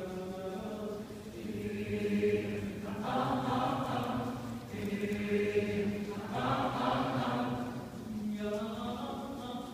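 A cappella choir singing held chords over a steady low drone. Twice the sound swells into a brighter, noisier texture before settling back into the sustained chord.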